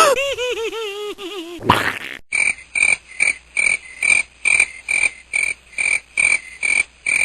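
A cartoon-style pitched tone that falls while wobbling, then a frog croaking in a steady series of short calls, about three a second.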